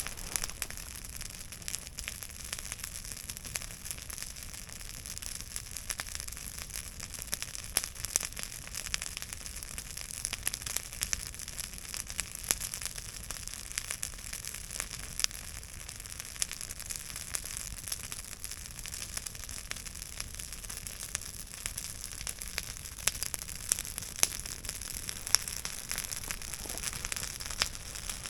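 Campfire burning: a steady hiss with frequent sharp crackles and pops from the wood.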